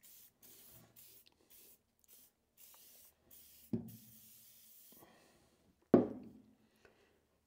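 Aerosol penetrating oil hissing from a spray can in short bursts and then a longer spray, with two sharp knocks, the second and louder one about six seconds in.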